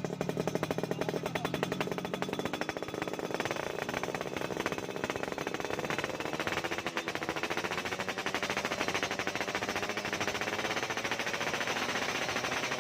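Yamaha F1ZR's single-cylinder two-stroke engine running through a racing exhaust, idling with a rapid, steady popping beat and slight wavering in pitch.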